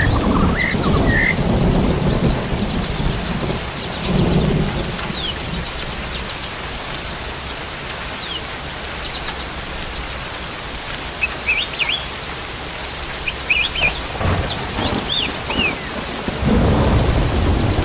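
Small birds chirping in short rising and falling calls over a steady hiss of rain. Low rumbles of thunder swell at the start, again about four seconds in, and once more near the end.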